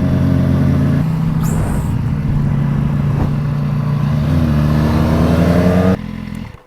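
Sport motorcycle engine running at fairly steady revs while riding, with a haze of wind and road noise over it. The revs rise a little near the end, and the sound then falls away.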